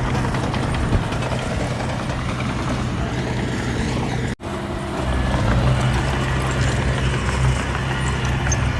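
Diesel engine of heavy earthmoving machinery running steadily under work, with a brief break about halfway through where the sound cuts out and comes back a little heavier.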